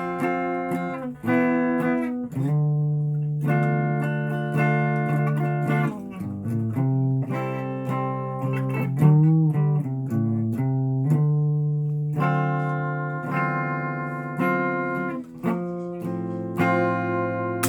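Guitar being played: chords struck and left ringing, changing every second or two, with a wavering, bent note about nine seconds in.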